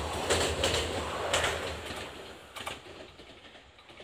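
JR Shikoku 8600 series electric train passing close by, its wheels clacking over the rail joints several times over a low running rumble, fading as it pulls away.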